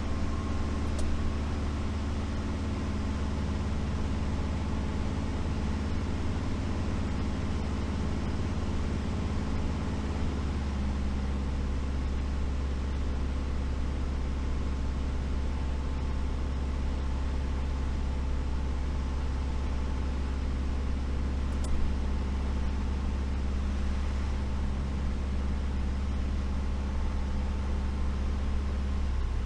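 Light aircraft's piston engine and propeller droning steadily in the cockpit on approach with gear and flaps down, with a brief click about 22 seconds in.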